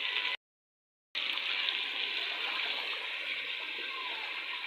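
Chicken and potato pieces frying in hot ghee in a steel pot, a steady sizzle. The sound cuts out completely for under a second near the start.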